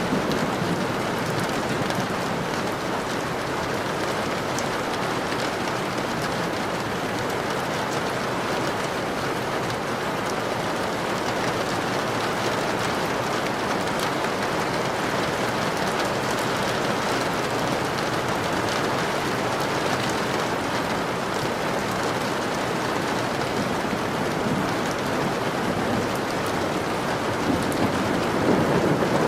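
Steady rain falling on a surface, a dense hiss of drops. Near the end a low rumble of thunder begins to build.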